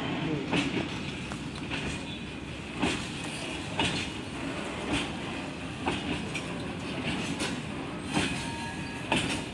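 Freight train of open-top goods wagons rolling steadily past, with a continuous rumble and the wheels giving sharp clacks roughly once a second.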